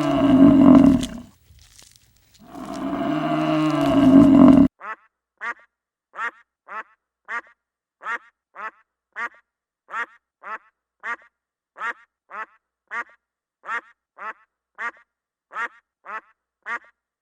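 A cow mooing in two long, loud calls, the second cut off abruptly, followed by a duck quacking: a steady run of short quacks at a little under two a second.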